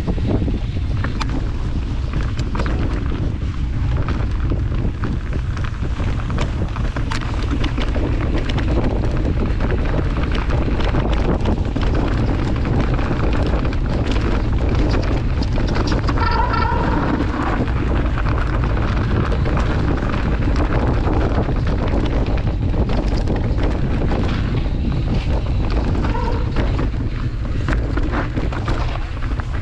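Heavy wind buffeting on the microphone of a fast-moving mountain bike, with steady rattling and clicking from the bike and tyres on the trail. A short high squeal sounds about sixteen seconds in.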